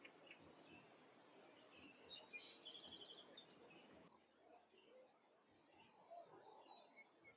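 Faint songbird singing: a quick trill of rapidly repeated high notes starting about one and a half seconds in and lasting about two seconds, followed by a few scattered faint chirps.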